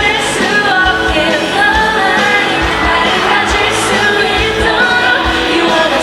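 Live pop-rock song played loud through a concert sound system: singing over a full band, with a steady kick-drum beat about twice a second.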